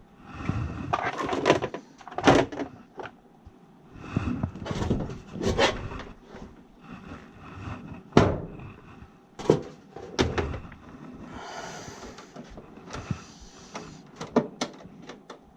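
Irregular handling noises: clunks, clicks and scraping, with several sharp knocks spread through, as a technician handles tools and parts in HVAC equipment.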